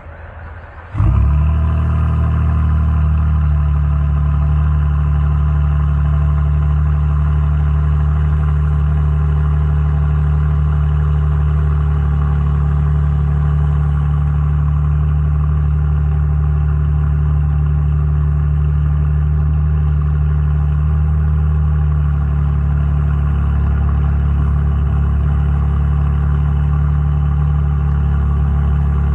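Cold start of a 2006 Saab 9-3 2.8T's turbocharged 2.8-litre V6, breathing through a gutted downpipe with no catalyst. The engine catches about a second in and settles into a loud, steady cold idle, and the note drops slightly about 22 seconds in.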